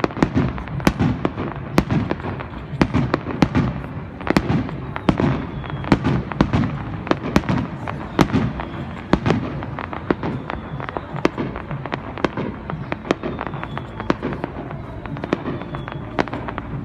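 Fireworks display: a rapid, continuous barrage of shell bursts, many sharp bangs each second with crackling between them, and a few faint high whistles.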